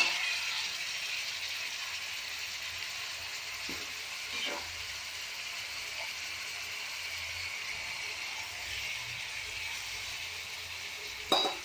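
Chopped onions and boiled chicken pieces sizzling steadily in hot oil in a pan while being stirred. There are faint knocks about four seconds in and a sharp knock near the end.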